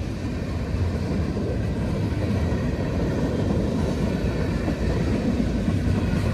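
CSX freight cars rolling slowly past, a steady low rumble of wheels on the rails.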